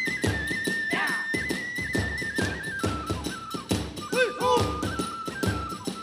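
Kagura hayashi ensemble: a bamboo flute plays a high, sustained melody that steps between a few notes, over fast, steady drum beats.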